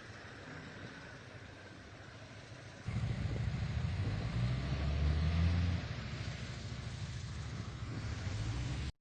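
Steady hiss of wind and road noise, joined about three seconds in by the low rumble of a vehicle driving on a snowy road, loudest for a few seconds and then easing.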